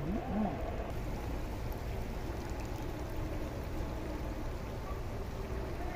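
Steady rush of rain falling on floodwater, with a low rumble underneath.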